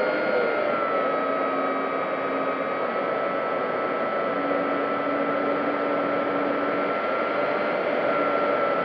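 Electric motor and propeller of an FMS P-40B Warhawk RC warbird in flight, heard from its on-board camera: a steady whine over rushing air. The pitch dips slightly about a second in and rises a little near the end as the throttle changes.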